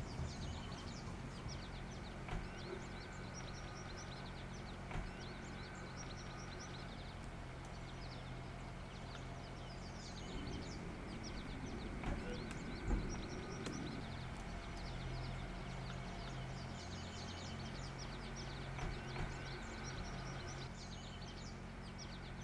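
Songbirds singing, with many quick repeated chirps and trills, over a steady low hum; a soft thump about halfway through.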